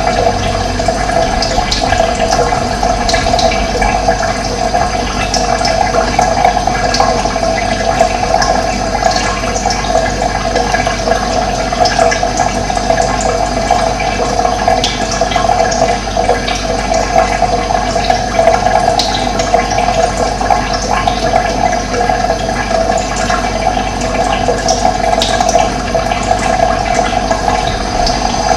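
Steady rush of running water, with occasional short high bird chirps over it.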